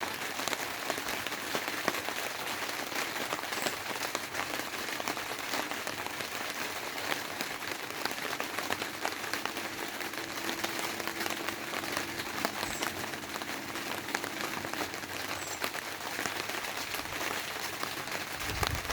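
Rain falling steadily on a tarpaulin, a dense, even patter of countless small drop impacts.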